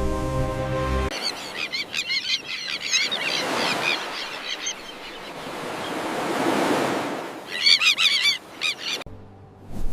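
Common terns calling in a colony: two bursts of rapid, high chattering calls, with the wash of surf swelling between them. Music cuts off about a second in.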